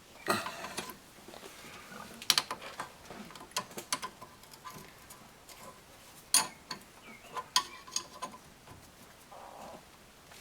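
Hand tools and metal brake parts clicking and clinking irregularly as the rear brake caliper's mounting bolt is screwed in and tightened.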